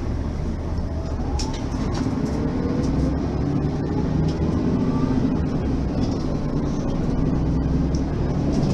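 Mercedes-Benz facelift city bus's diesel engine running as the bus drives, with a whine that rises in pitch a couple of times as it pulls away and picks up speed.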